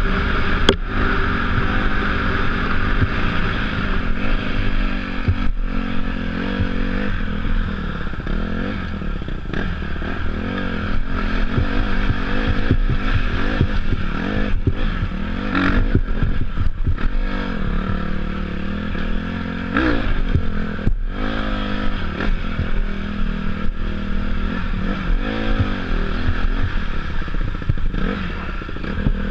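Dirt bike engine being ridden, its revs rising and falling again and again as the throttle is worked, with frequent short knocks and rattles.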